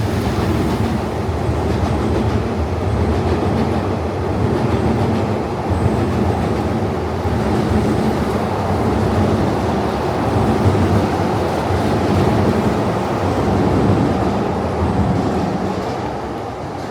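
Electric commuter train running past on the tracks, a loud steady rumble of wheels on rail that fades away near the end.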